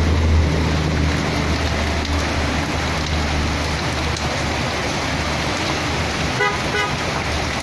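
Steady rain falling, with a vehicle engine's low rumble that fades over the first few seconds. Near the end comes a quick run of short pitched beeps.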